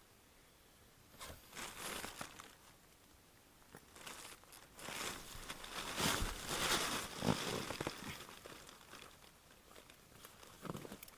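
Nylon sleeping bags and clothing rustling and crinkling as they are handled and shifted in a tight space, in irregular bursts that grow busiest around the middle.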